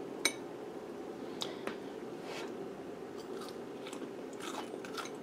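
Crispy batter-fried egg being chewed: faint, irregular crunches over a steady low hum.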